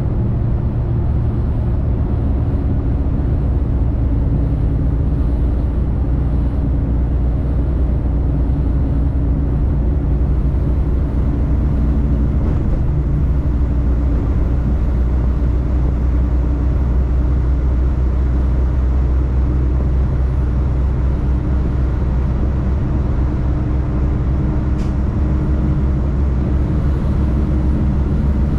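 Semi truck's diesel engine and road noise, a steady low drone while driving.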